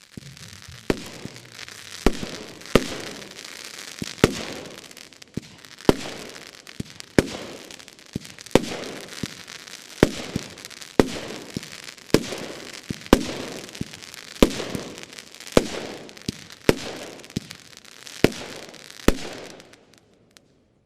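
TNT Fury firework battery firing a series of shots, about sixteen sharp bangs roughly one to one and a half seconds apart, with crackling hiss between them. It stops about a second before the end.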